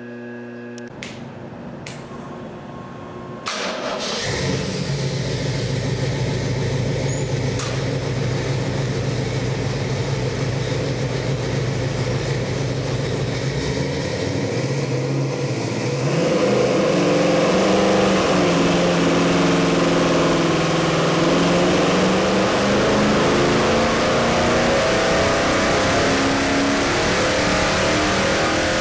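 Pontiac 400 V8 with a hydraulic roller cam, running on an engine dyno. It fires up about three and a half seconds in and idles steadily. From about sixteen seconds in it runs louder under load as the dyno sweep pulls it up through the rev range toward 4,500 rpm.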